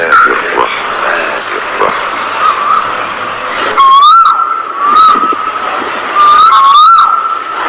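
A flock of budgerigars chattering. Loud whistled calls that rise and fall in pitch cut through in short runs about four seconds in, again a second later, and near the end.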